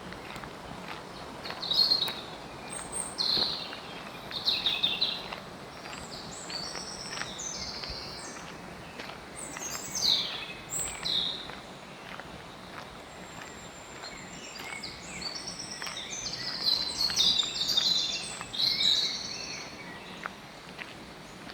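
Songbirds chirping and singing in short phrases, in bouts with gaps between them, over a steady outdoor background hiss.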